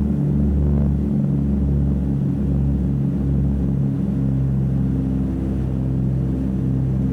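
Two radial engines of a DC-3 droning steadily, heard from inside the cabin. The low drone beats about once a second and evens out about four seconds in.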